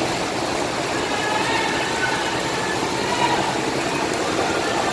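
A bus engine running steadily close by.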